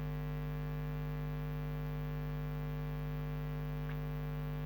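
Steady electrical mains hum, a buzz of several constant tones, with a faint click about four seconds in.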